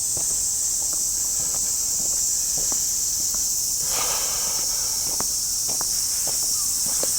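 Steady, loud, high-pitched drone of summer cicadas, with irregular footsteps of someone walking on pavement. A brief scuffing rustle about four seconds in.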